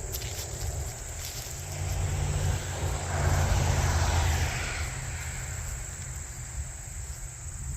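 A vehicle passing on a nearby road, swelling to its loudest about halfway through and then fading away, over a steady low rumble and faint insect chirping.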